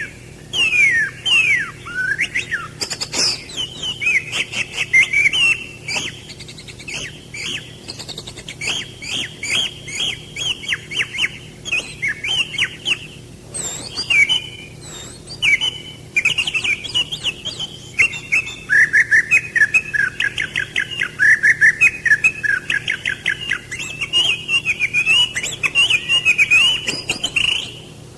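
Songbirds chirping and calling continuously in quick, sharp down-slurred notes, with a long fast run of rapidly repeated notes about two-thirds of the way through.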